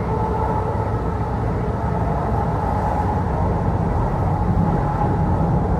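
Kintetsu Osaka Line local train running, heard from inside the passenger car: a steady rumble of wheels on the rails with a steady hum above it.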